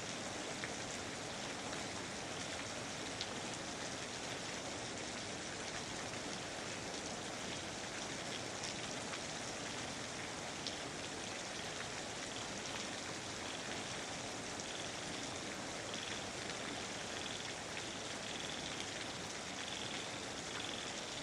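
Steady rain falling, a dense patter of small drops. In the last few seconds a frog starts up, a repeated high-pitched call.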